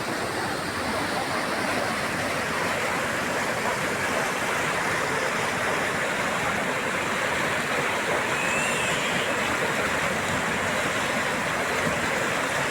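Steady rushing of a flooded, overflowing river, an even roar of fast water without a break.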